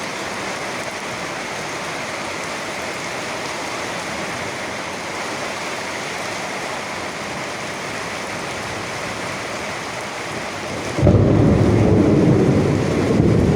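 Steady rain falling, an even hiss. Near the end a loud, low rumble of thunder starts suddenly and carries on.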